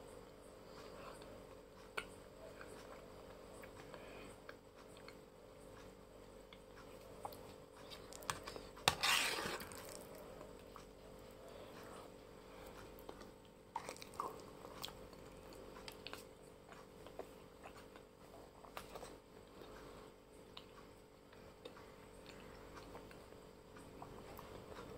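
Chewing a mouthful of Shan rice noodles close to the microphone, with scattered short clicks of a metal spoon. One louder noisy burst comes about nine seconds in, over a faint steady hum.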